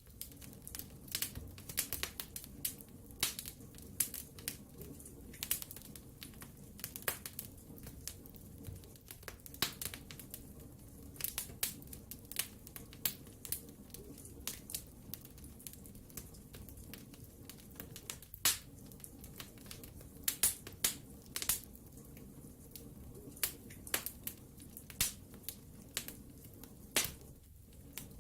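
Wood fire in a fireplace crackling, with irregular sharp pops and snaps over a steady low rush of the flames; one louder pop a little past halfway.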